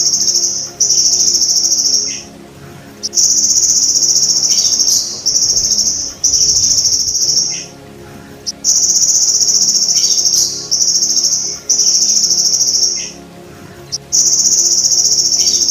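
Golden grasshopper (belalang emas) calling: loud, high-pitched buzzing trills, each lasting one to two seconds with short breaks between them, repeated about eight times.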